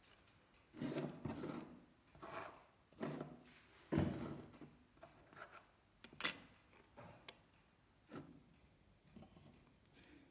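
Small knocks and clicks of hand tools and a circuit board being handled on a workbench while soldering an LED, one sharp click about six seconds in. A steady high-pitched whine runs underneath.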